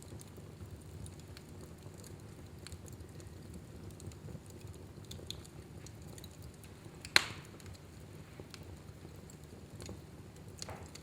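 Fireplace fire burning with a low steady rumble and scattered small crackles, and one sharp, loud pop about seven seconds in.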